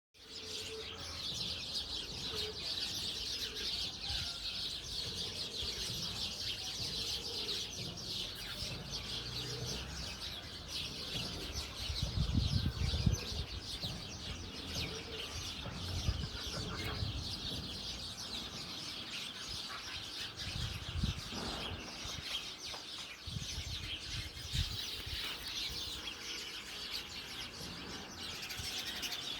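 Dense, continuous high-pitched chirping, as from a flock of small birds, with occasional low thumps and bumps.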